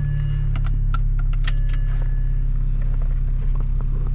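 BMW 335i's N54 twin-turbo inline-six running steadily at low revs, heard from inside the cabin. A few light clicks and rattles come about a second in.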